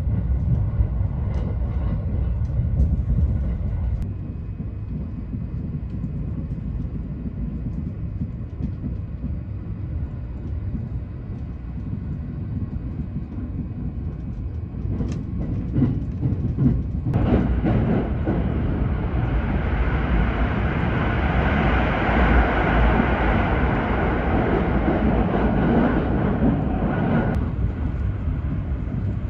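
Thunderbird limited express electric train running at speed, heard from on board: a steady rumble of wheels on rail. From a little past halfway, a louder rushing hiss sets in for about ten seconds.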